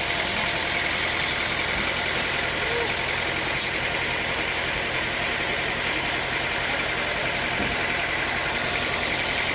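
Sawmill machinery running steadily: an even mechanical noise with a constant hum and a steady higher whine.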